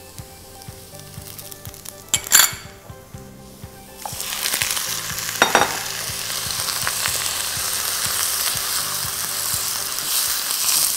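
Spices and aromatics frying in hot oil in a cooking pot. A faint sizzle and a brief clatter of utensils come first. About four seconds in, a loud sizzle starts as more goes into the oil, and it keeps frying steadily while being stirred.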